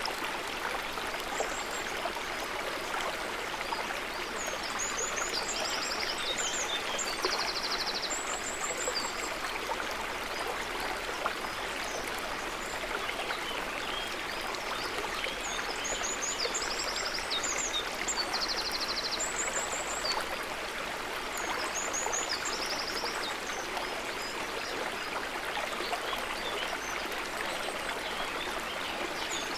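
River water running steadily in a continuous rush. Over it, a bird's high chirps and short trills come in the same sequence three times, about every eleven seconds.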